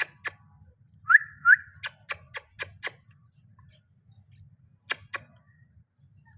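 Pet parrot whistling two short rising notes, then a quick run of about six sharp clicks, with two more clicks near the end.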